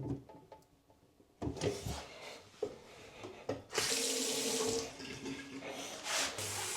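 Newly installed bathroom faucet turned on, water running into the sink basin, starting a little past halfway and easing slightly after about a second, as a first leak test of the new faucet. A few knocks and clicks come before it.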